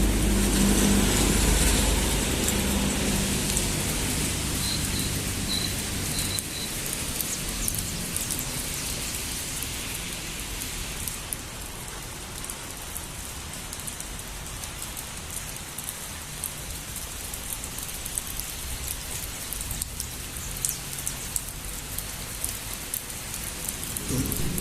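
Steady gentle rain falling, with fine drop clicks throughout. A vehicle's engine hum fades away over the first few seconds, leaving the rain alone.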